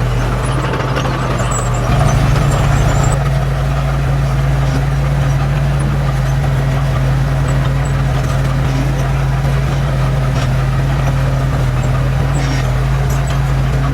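Heavy diesel engine of an earthmoving machine running steadily with a constant low hum, a little louder for about a second around two seconds in.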